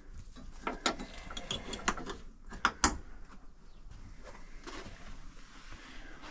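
Tools and hardware being handled and gathered up: a run of sharp clicks and clacks over the first three seconds, then quieter shuffling.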